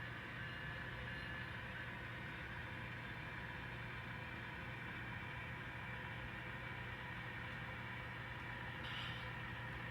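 N scale model train running steadily on the layout: a small locomotive motor's whir with a constant low hum, unchanging throughout, and a brief faint rise near the end.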